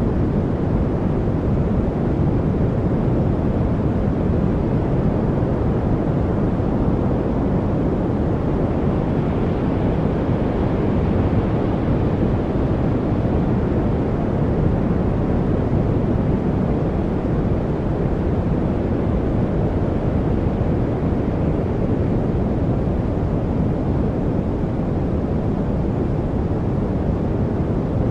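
Steady, deep, even rushing noise from a focus white-noise track, heavy in the low end with little treble and no distinct events or changes.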